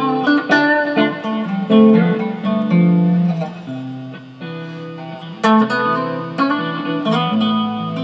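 Guitar playing: picked single notes and chords in a melodic line, quieter in the middle and then struck hard again about five and a half seconds in.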